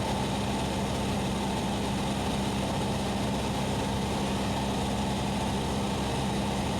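Cessna 172SP's four-cylinder Lycoming engine and propeller droning steadily in a descent, heard from inside the cabin, with one steady low tone under the noise.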